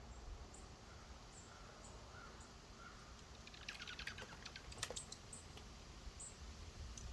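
Small songbirds at a feeder: faint, short, high chip notes about twice a second, with a quick run of sharp clicks about halfway through.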